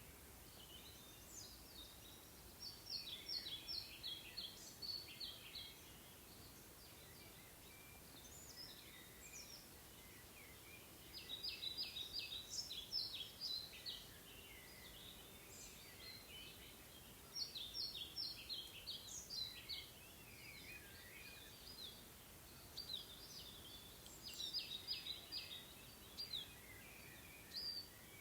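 A songbird singing outdoors: short phrases of rapid, high chirping notes, each about three seconds long, repeated roughly every six seconds over a faint steady background hiss.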